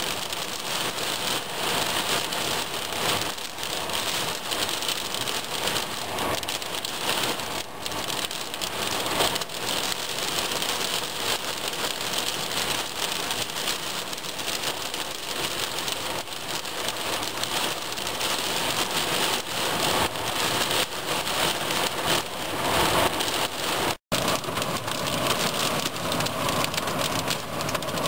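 Heavy rain pouring down in a steady hiss, with a brief break in the sound near the end.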